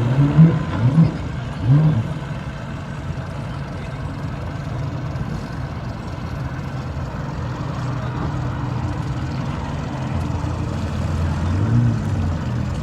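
Engine idling steadily with a low hum, with a few short rising-and-falling sounds near the start and again near the end.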